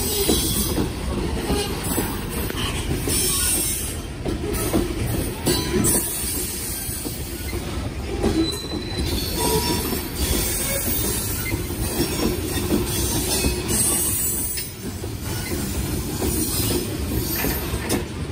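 Loaded gravel train of open-top hopper cars rolling steadily past, with a continuous rumble and the clatter of car wheels on the rails.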